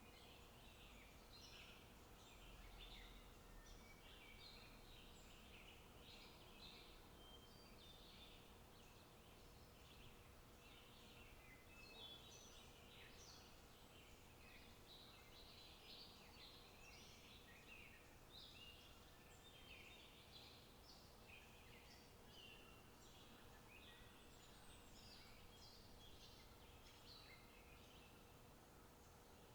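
Faint outdoor ambience of small birds chirping continuously, many short calls overlapping without a break.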